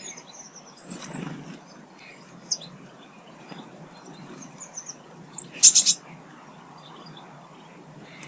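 Small garden songbirds chirping with short, high calls. There is a brief louder low burst about a second in, and a short, loud run of harsh chirps about five and a half seconds in.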